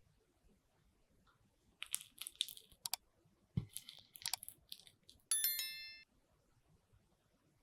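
Kitchen handling sounds: two bursts of crisp crunching and scraping clicks with a soft knock between them, then a single bright ding that rings out for under a second, like a utensil striking a dish.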